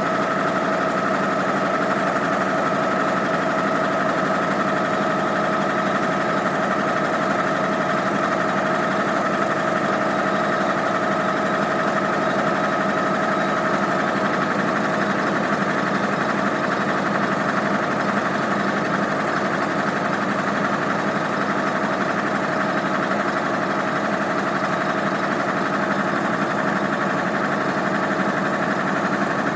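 Six-cylinder Chevy spark-ignition engine running steadily under load, its pitch and level unchanging.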